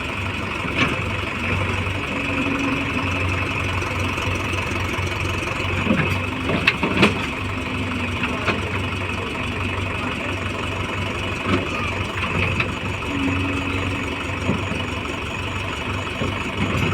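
Heavy-machinery diesel engine running steadily, with a few sharp knocks about six to seven seconds in.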